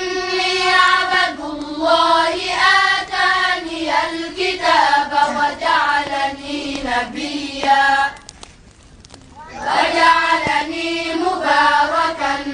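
A single voice reciting the Quran in a slow, melodic chanted style, holding and ornamenting long notes, with a pause of about a second and a half past the middle.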